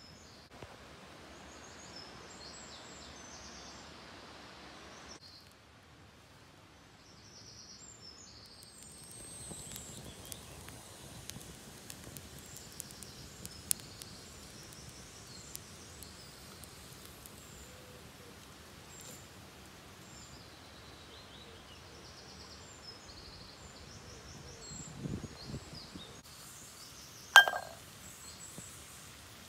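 Outdoor ambience: a steady faint hiss with small birds chirping high and faint. Scattered light clicks, and one sharp clink with a short ring near the end.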